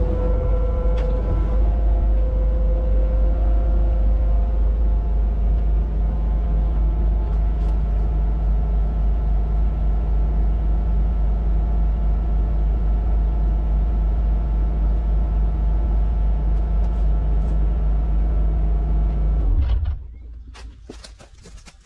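Kubota KX61-2a mini excavator's diesel engine running steadily with a deep rumble, then shut off near the end, the sound dying away within about a second.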